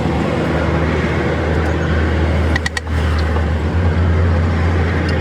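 A vehicle engine running steadily with a low hum over general traffic noise. The sound briefly drops a little past halfway.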